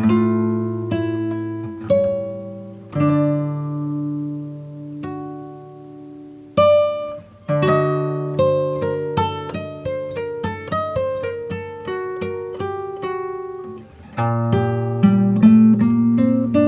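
Background music of plucked guitar: single notes ring out and fade slowly at first, quicken into a run of picked notes about halfway through, and fuller chords come in near the end.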